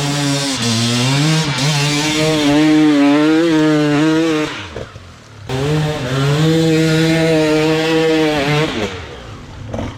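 Dirt bike engine held at high revs, its pitch wavering as the throttle is worked; it drops away briefly about halfway through, then revs up again and eases off near the end.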